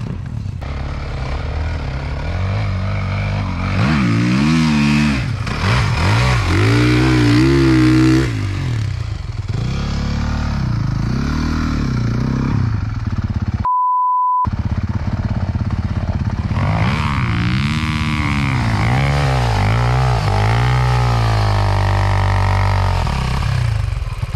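Off-road motorcycle or ATV engine revving hard, the pitch climbing and dropping again and again with the throttle. A short single-pitch beep in a brief silence breaks in about halfway through.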